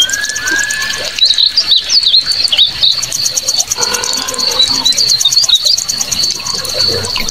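Birds chirping, with short slurred notes in two clusters, over a steady high, fast-pulsing trill.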